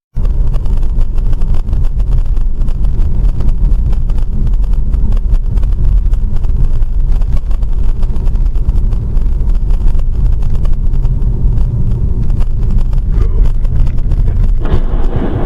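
Car driving on a highway, heard from inside: steady low engine and road rumble with tyre noise.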